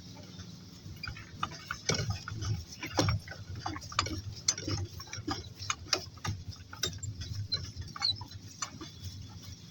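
Footfalls of walking on a farm, with a steady, irregular run of sharp clicks and knocks about two a second.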